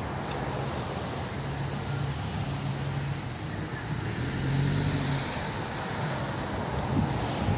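Motor vehicle running: a steady low engine hum over broad road noise, swelling slightly about halfway through.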